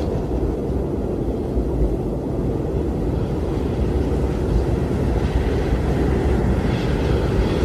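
Strong wind blowing steadily, a deep, low rush of noise with no let-up. A gust adds a higher hiss over the last few seconds.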